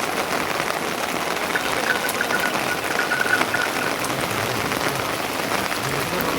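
Steady rain falling, the constant hiss dotted with many small drop ticks.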